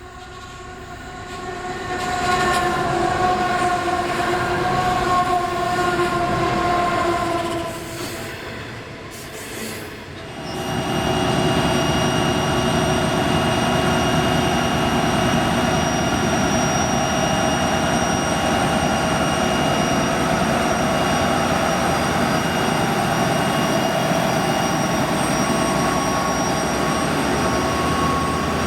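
Diesel locomotive horn sounding one long steady blast, then about ten seconds in a diesel-hauled coal train passing close by with a continuous rumble and rail noise, steady ringing tones running through it.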